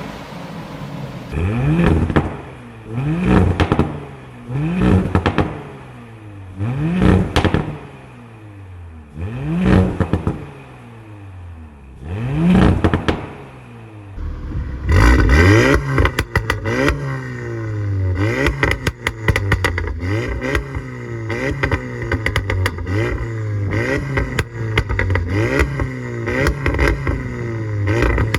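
A car engine being revved with repeated throttle blips, each rising and falling in pitch, about six of them a couple of seconds apart. About halfway through the revs come quicker, roughly once a second, with a dense sharp crackling over them.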